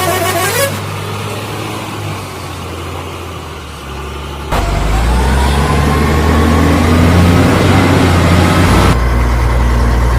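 A heavy vehicle's engine running with a steady low drone. It gets louder about four and a half seconds in, with a whine rising in pitch.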